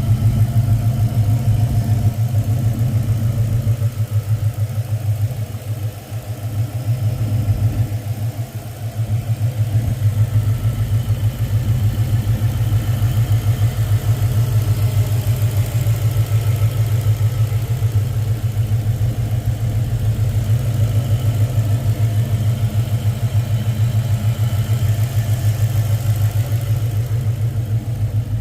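2000 Ford Explorer's 5.0-litre 302 V8 idling with a steady, fast low pulsing, briefly dipping in level twice a few seconds in. It is being recorded to troubleshoot an engine noise.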